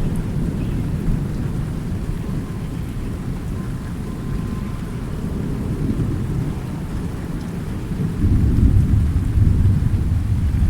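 Thunderstorm: steady rain with low rolling thunder, a louder rumble building about eight seconds in.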